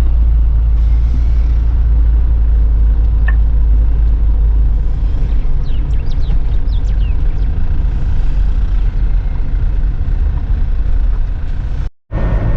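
Steady low rumble of a vehicle's engine and road noise, heard from inside the cab while it moves slowly. The sound cuts out briefly near the end.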